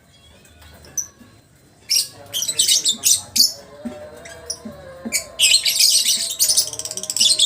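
Lovebird chattering: short, high-pitched bursts start about two seconds in, then run into a long unbroken stretch of rapid chatter near the end. This is the long 'ngekek' song that lovebird keepers prize.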